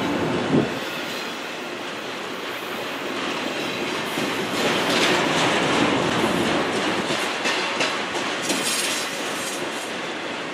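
Freight train's autorack cars rolling past steadily, steel wheels clattering over the rail joints, with a sharp knock about half a second in.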